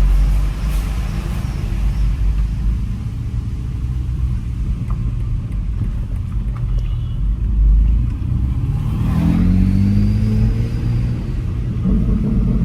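BMW X3 M's twin-turbo inline-six running under way, with steady low road rumble; about nine seconds in the engine revs up briefly under acceleration.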